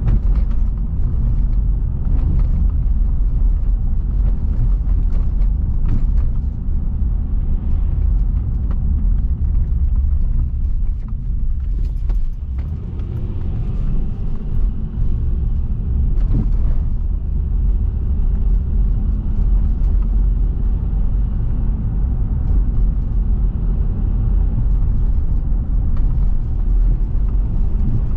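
A car driving, giving a continuous low rumble of road and engine noise. It eases briefly about twelve seconds in.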